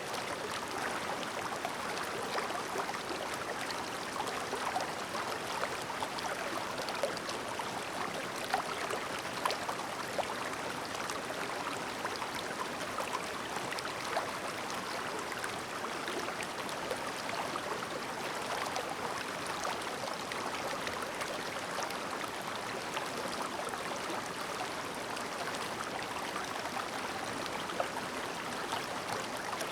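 Shallow, clear mountain stream babbling over stones: a steady rush of flowing water, full of small splashes and gurgles.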